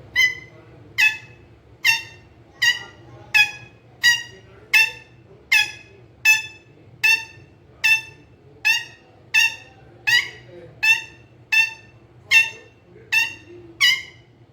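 Ring-necked parakeet calling: a short, harsh, high call repeated evenly about every 0.8 seconds, some nineteen times in a row.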